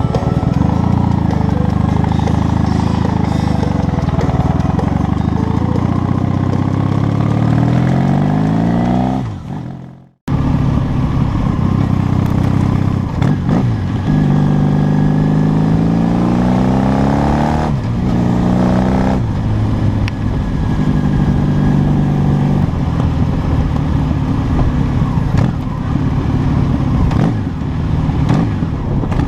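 A vehicle engine accelerating hard through the gears: the pitch rises steadily several times, then drops back at each shift. The sound cuts out abruptly about ten seconds in, then the engine pulls again.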